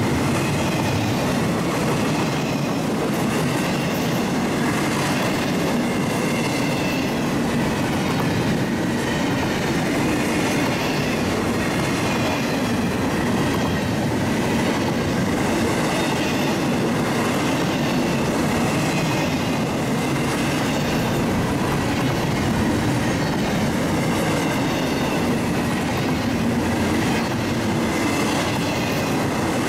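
Train cars rolling steadily past on the rails, a continuous wheel-on-rail rumble with a faint repeating click.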